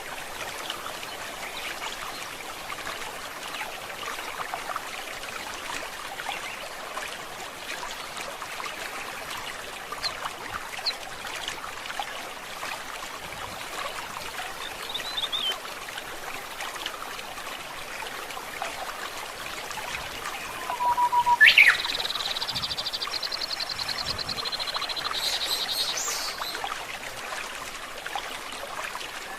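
A stream trickling and gurgling steadily, with occasional bird chirps. About two-thirds of the way through a bird gives a loud call followed by a steady high trill lasting several seconds.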